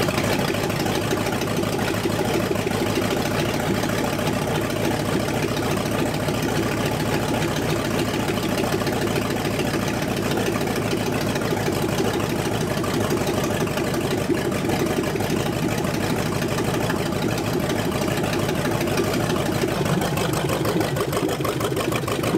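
Freshly assembled carbureted engine of an old Dodge police car idling steadily just after being started. It is on its first warm-up run, to check temperature and oil pressure.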